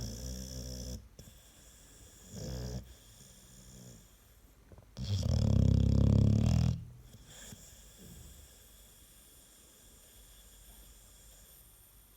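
American Staffordshire terrier snoring in its sleep. There is a snore at the start, a short one about two and a half seconds in, and a much louder, drawn-out snore lasting nearly two seconds about five seconds in.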